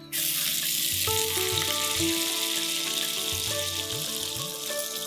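Food frying in hot oil in a cooking pan, a loud steady sizzle that starts abruptly, with background music underneath.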